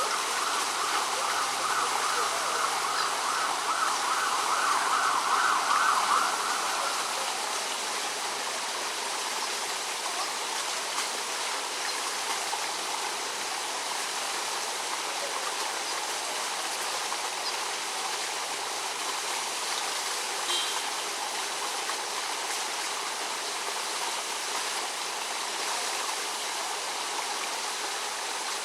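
Steady rushing outdoor noise. A louder, even buzzing band sits over it for the first six or seven seconds and then fades, and a short high call is heard about twenty seconds in.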